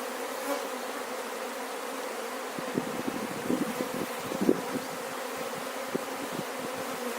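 Honeybees buzzing around an opened hive in a steady hum, with a few light knocks in the middle.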